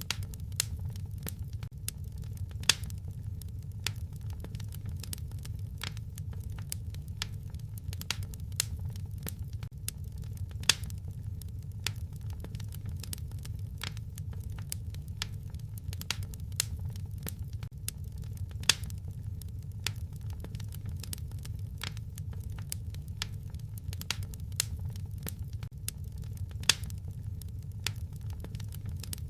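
Wood fire crackling in a fireplace: irregular sharp snaps and pops over a steady low rumble of the flames, with a few louder pops about every eight seconds.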